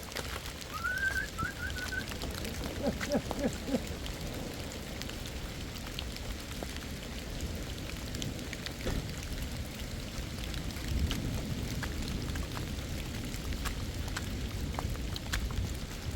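Steady rain falling, with many individual drops ticking against a low wind rumble. A short high chirp rises about a second in.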